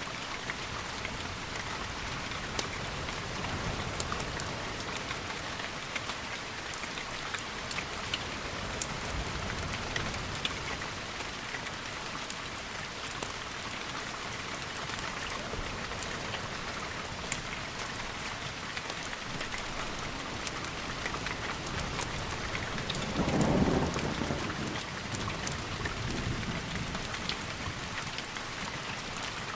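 Steady rain with scattered sharp ticks throughout, and a low roll of thunder that swells about three-quarters of the way through.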